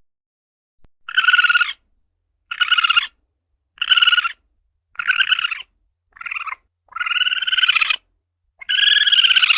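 Asian palm civet (luwak) calling: a harsh, buzzy call repeated about once a second, seven calls in all, the last two drawn out longer.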